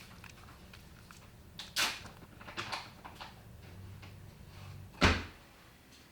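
Household handling sounds: a sharp knock about two seconds in, a few light clicks, and a heavier thump about five seconds in.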